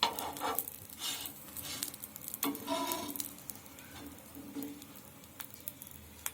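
Bread sizzling lightly in an oiled frying pan, with a few scrapes and clinks of a spatula handling the food in the pan.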